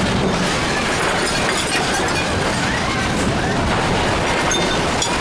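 A building shaking in the 2011 Great East Japan Earthquake: a steady loud rumble with fixtures and objects rattling and clinking.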